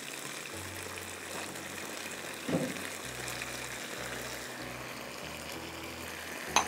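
Kabab mixture with onion and capsicum sizzling steadily in hot oil in a pan. A short knock sounds about two and a half seconds in, and another near the end.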